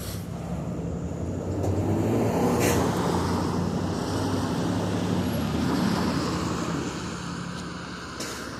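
Road traffic: a motor vehicle passing on the street, growing louder to a peak about two to three seconds in and then slowly fading, with a steady low engine hum underneath.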